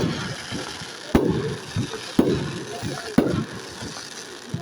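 Aerial fireworks going off: three sharp bangs about a second apart, each followed by a rolling rumble.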